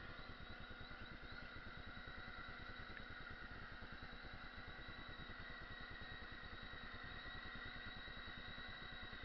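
AEE Toruk AP10 quadcopter drone's motors and propellers whirring steadily with a held high whine, over a low fluttering rumble of wind buffeting the microphone.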